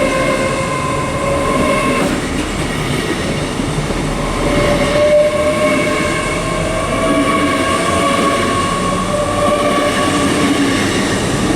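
A Great Western Railway Class 800 train at the platform, a steady rumble with a whine of several tones that slowly rises in pitch.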